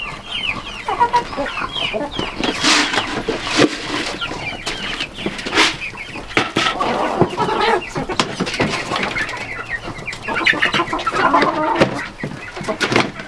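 Chickens clucking and calling on and off, mixed with irregular clicks and knocks.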